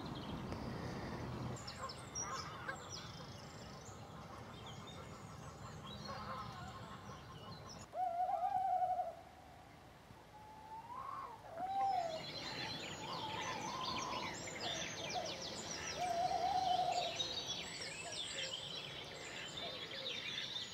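Waterfowl calling several times, each call about a second long, the first and loudest about eight seconds in. Songbirds chirp steadily over the second half.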